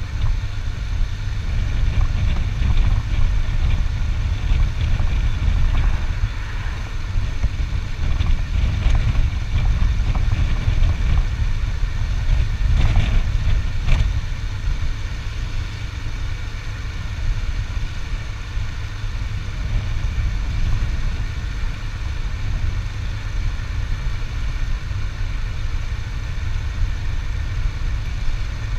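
Motorcycle running at riding speed, a steady low rumble, with a couple of short sharp sounds about halfway through.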